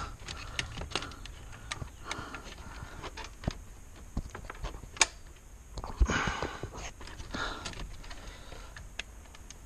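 Scattered small clicks and knocks of hands working plastic wiring connectors and dash trim loose, with a man's heavy breathing between them. The sharpest click comes about five seconds in and a dull knock just after.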